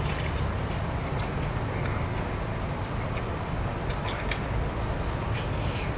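A man chewing a mouthful of stir-fried chicken sundae, with scattered faint wet mouth clicks over a steady low background hum.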